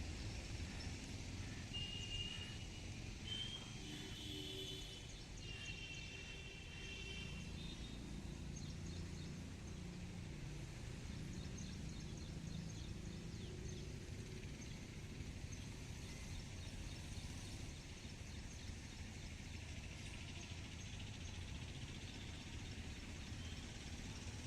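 Railway platform ambience: a steady low rumble, with a few short high chirps in the first eight seconds.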